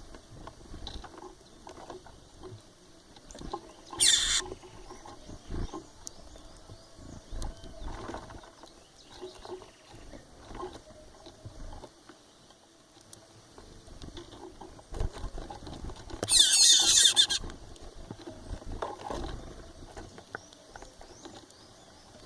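Birds calling: a short harsh squawk about four seconds in and a longer, louder screech of about a second near two-thirds of the way through, with fainter scattered chirps and knocks between.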